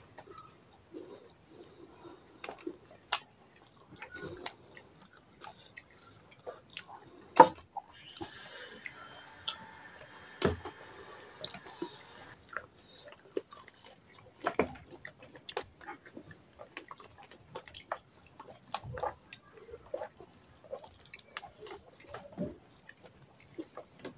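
Close-up chewing and crunching of fried samosas, with scattered sharp clicks and taps of fingers and food on a plate.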